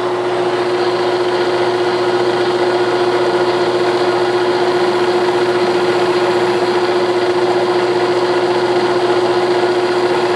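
A 1967/68 Clausing Colchester 1340 geared-head lathe running steadily with its spindle at 570 RPM, a constant gear whine over the machine's running noise.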